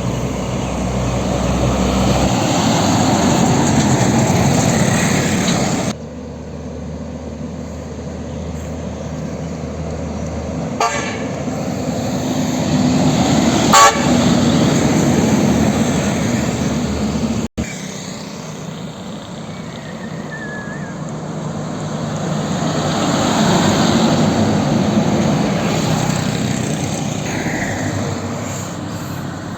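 Heavy trucks passing on a road, their engine and tyre noise swelling and fading, with a truck horn sounding briefly near the middle.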